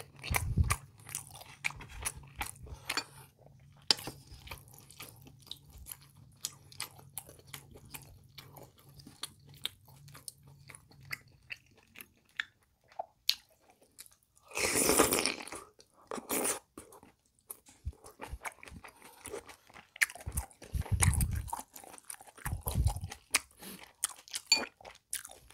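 Close-miked chewing of pork kimchi stew: wet mouth clicks and smacking throughout. About fifteen seconds in, a loud slurp lasting about a second as broth-soaked kimchi strands are sucked in.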